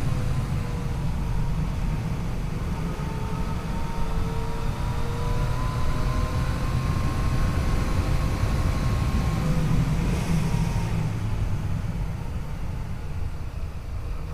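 Yamaha FJ-09's three-cylinder engine running under way at a steady road speed, its note drifting slowly up and down, under heavy wind rumble on the microphone.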